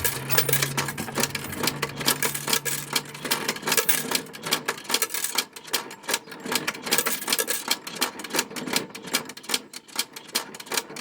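Johnson Model D fare box's coin-handling and counting mechanism being hand-cranked, a rapid, irregular mechanical clicking and clatter as coins and tokens pass through it. A low hum runs under it for about the first three seconds.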